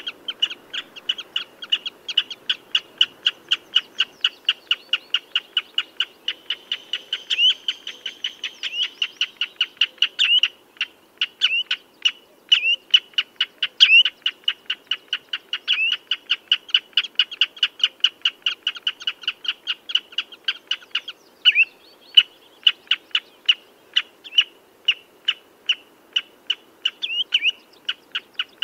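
Common redshank calling: a rapid, steady series of short piping notes, about three to four a second, with now and then a louder slurred note.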